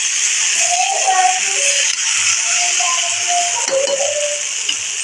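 Tomato and spice masala sizzling in hot oil in an iron kadai while a spatula stirs it, a steady hiss, with a scrape of the spatula near the end. A melody of music plays over it.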